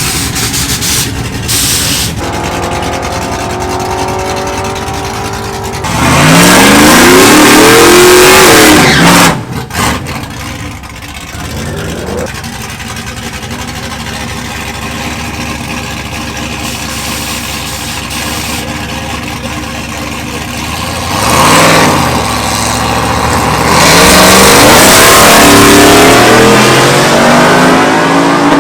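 Drag-racing vehicles at wide-open throttle, their engine pitch climbing in steps through the gears, in two very loud runs about six seconds in and again from about 24 seconds, with engines running steadily in between.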